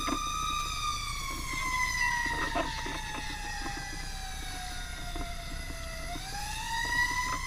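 Fire truck siren wailing, its pitch sliding slowly down for about six seconds and then winding back up near the end, over the low rumble of the truck's engine.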